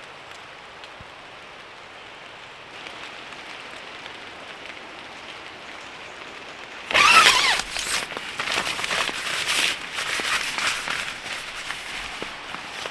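Steady light patter, then from about halfway loud, irregular crackling and rustling of forest litter and twigs being trodden or pushed through.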